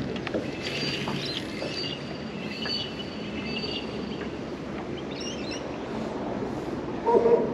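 Steady running noise of a small boat's outboard motor moving slowly through the water. A dog barks once near the end.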